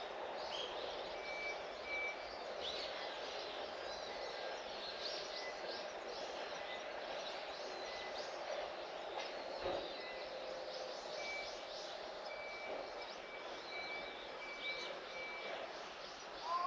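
Garden ambience: small birds chirping here and there over steady background noise, with a single soft thump about ten seconds in.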